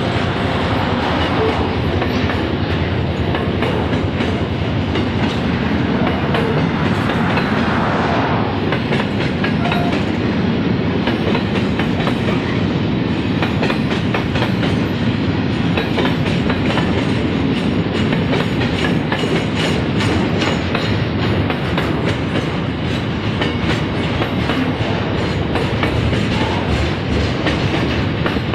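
Container flat wagons of a freight train rolling slowly past: a steady, loud rumble of wheels on rail, with many light clicks and knocks from the wheels.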